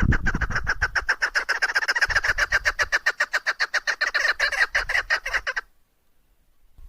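Female chukar partridge calling: a fast, even run of short clucking notes, about eight a second, that stops abruptly near the end.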